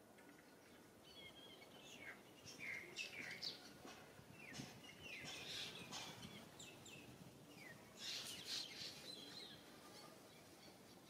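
Faint birdsong: short high chirps and twitters in scattered clusters, busiest about three seconds in and again about eight seconds in.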